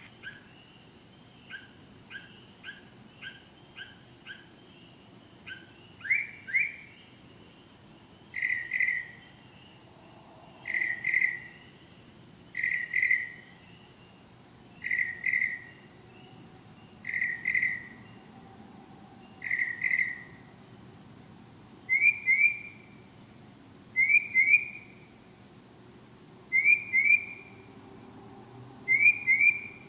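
A bird singing: a quick run of short faint notes, then a loud two-note whistled phrase, each note slurring downward, repeated about every two seconds, turning higher and sharper in the last third.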